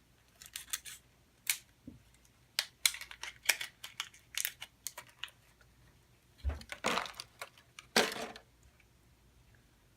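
Plastic packaging being worked open: a run of sharp clicks and crinkles, with a low thump and two longer rustling tears about seven and eight seconds in.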